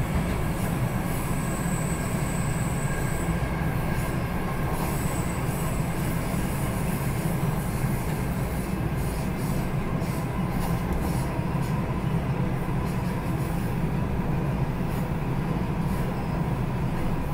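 Steady low rumble of a moving passenger train car heard from inside as it rolls along the track. A faint, thin, high wheel squeal comes in about a second and a half in and again briefly near five seconds.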